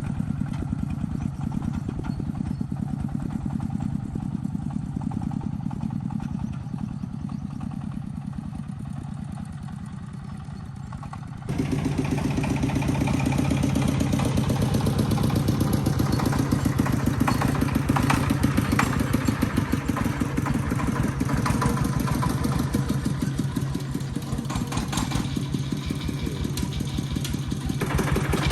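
A small engine running steadily with a fast, even beat. About eleven seconds in it becomes suddenly louder and fuller, and it stays that way.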